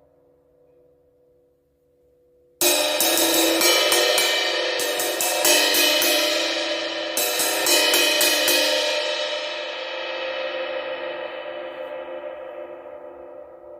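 16-inch Omete Knight Series crash cymbal struck repeatedly for several seconds, starting suddenly a few seconds in. It is then left to ring out in a long fading wash.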